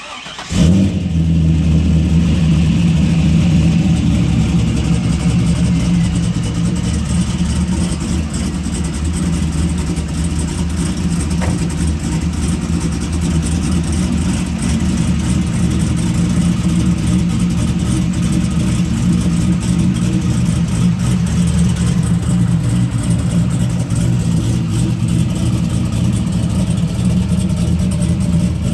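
2001 Corvette Z06's LS6 V8 cranking and catching about half a second in, with a brief flare of revs, then settling into a steady idle that eases slightly about eight seconds in.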